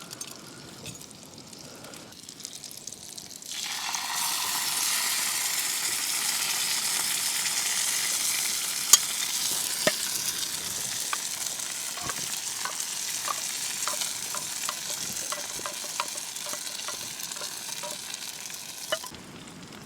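Beans tipped into a hot frying pan of tomatoes and eggs: a loud sizzle breaks out about four seconds in and slowly eases, with light taps of a utensil stirring against the pan, then cuts off near the end.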